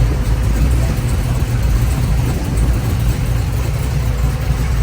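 A car engine running nearby with a deep, steady low rumble.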